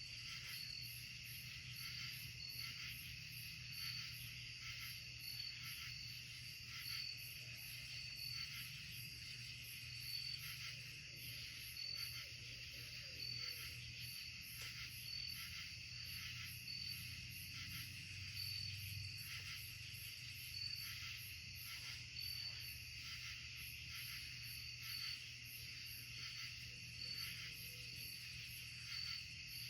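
Chorus of insects chirping steadily in the woods, with a regular pulse about once a second and a faster shimmer above it, over a steady low hum.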